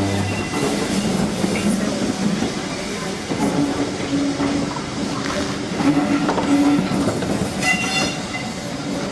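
Heritage railway passenger coaches rolling slowly past as the train pulls out, wheels clattering over the rail joints with a steady rumble. A brief high-pitched squeal comes near the end.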